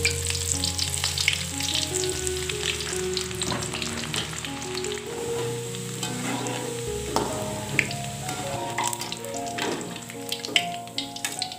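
Thinly sliced shallots deep-frying in hot oil in a metal wok: a steady sizzle full of sharp crackles, with the clink and scrape of a spatula and a perforated skimmer stirring in the pan.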